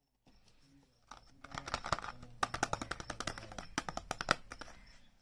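Packaging being handled and unwrapped: a rapid, irregular run of sharp clicks, taps and crinkles that starts about a second in.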